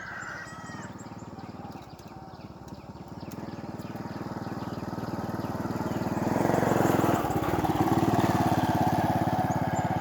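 A small engine running steadily, growing louder over the first six seconds and then holding at its loudest.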